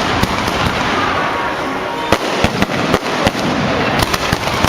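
Firecrackers going off in a dense continuous crackle, with scattered louder sharp bangs at irregular intervals.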